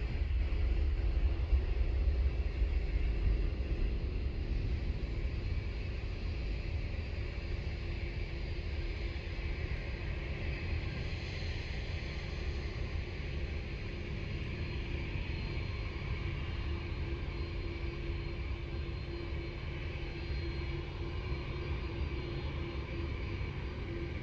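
Jet airliner landing: a steady low engine rumble, loudest in the first few seconds and then easing, with a faint steady whine in the higher range that grows a little stronger after about ten seconds.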